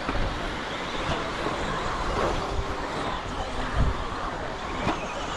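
Radio-controlled stadium trucks racing around the track, their motors whining and rising and falling in pitch as they pass, over a steady background of track noise.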